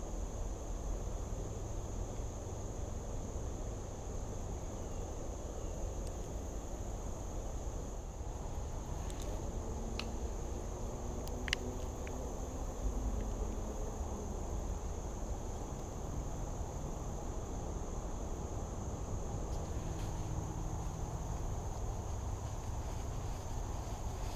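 Steady high-pitched insect chorus, like crickets, under a low rumble, with a few faint clicks near the middle.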